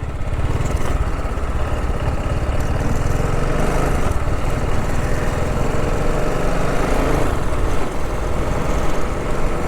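TVS Apache RR310's single-cylinder engine running steadily while the motorcycle is ridden, with a low rumble and rushing air around it.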